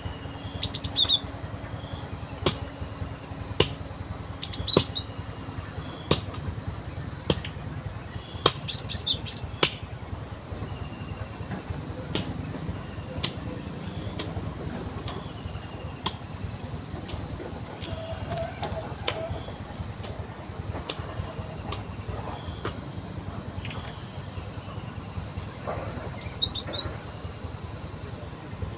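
Cinereous tit (gelatik batu) giving short bursts of sharp chirping calls a few times, over a steady high-pitched insect drone.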